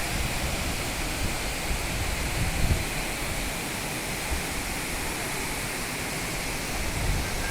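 Devkund waterfall: a steady, even rush of falling water. A few brief low rumbles swell up, about two and a half seconds in and again near the end.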